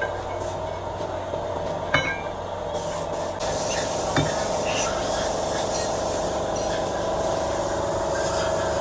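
Steady machine hum with a hiss over it, the hiss growing louder a few seconds in, and two sharp metallic clinks about two and four seconds in.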